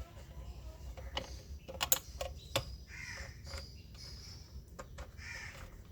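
Faint handling sounds of plastic car-interior parts: scattered sharp clicks and a few short squeaky scrapes as wiring connectors are pushed into the overhead console.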